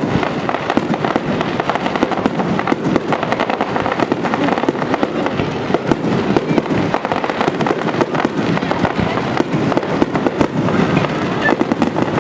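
Fireworks bursting in a rapid, continuous barrage: dense overlapping bangs and crackles with no pause.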